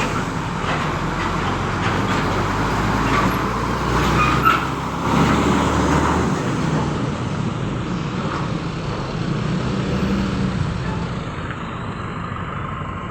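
Road traffic with heavy vehicles running past, including a deep engine rumble that cuts away about six seconds in.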